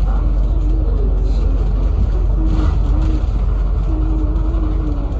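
City bus running, heard from inside the passenger cabin: a steady deep rumble of engine and road noise.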